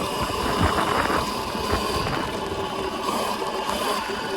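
2000 W electric bike riding along a wet, muddy trail: the motor's faint steady whine over the noise of the tyres on soft ground, with a couple of low knocks in the first two seconds.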